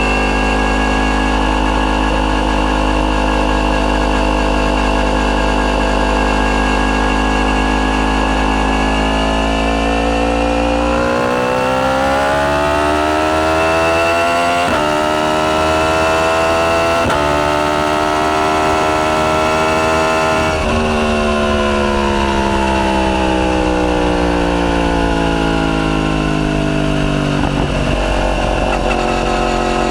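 Yamaha YZF-R1's crossplane inline-four with an Akrapovic full titanium, decatted exhaust, holding a steady engine speed, then accelerating hard through two quick upshifts, then winding down as engine speed falls steadily.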